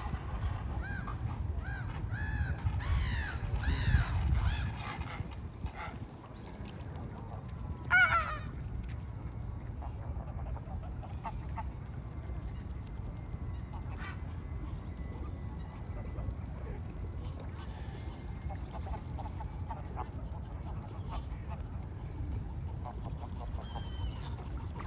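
Birds calling: a quick series of harsh pitched calls in the first few seconds, loudest about four seconds in, then a single sharp call about eight seconds in and scattered faint calls, over a steady low background rumble.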